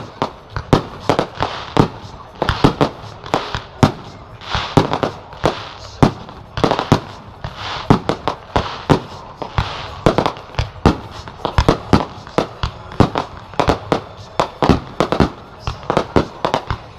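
Aerial fireworks display: shells bursting in rapid succession, several loud bangs a second without a break, over a continuous noisy wash.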